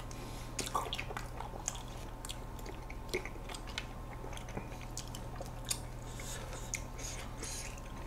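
Close-miked chewing and biting of ice cream cake, with many small scattered mouth clicks, over a faint steady low hum.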